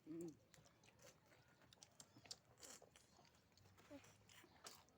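Faint chewing and small scattered clicks of people eating, with a brief short vocal sound at the very start.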